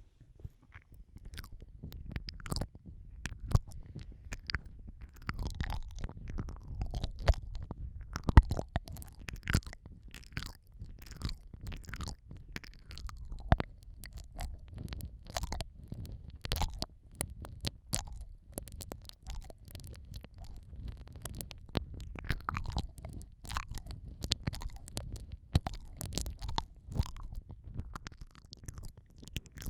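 Close-up wet mouth sounds of ASMR ear eating on a microphone: licking, sucking and lip smacks, with many irregular sharp wet clicks over a low rumble.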